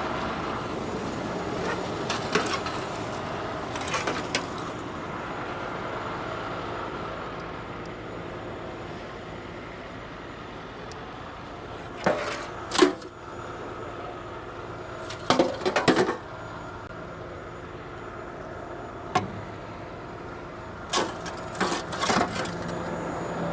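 Burnt truck wreckage being handled: loud knocks and clanks in several short clusters, the loudest about halfway through, over a steady idling truck engine.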